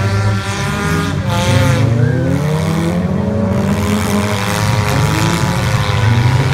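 Several figure-8 demolition derby cars' engines running hard together on a dirt track, their pitches overlapping and rising and falling as the drivers accelerate and back off.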